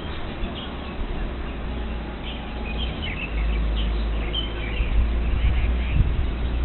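Outdoor ambience: birds chirping a few times in the middle, over a steady low rumble that grows louder about three seconds in.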